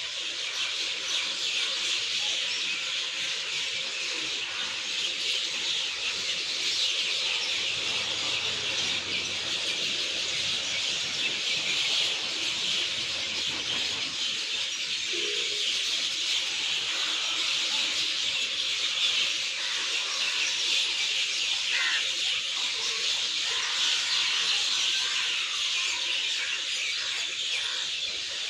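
Many birds chirping in a steady, dense chorus with a high, even hiss beneath, and a few separate short chirps standing out now and then.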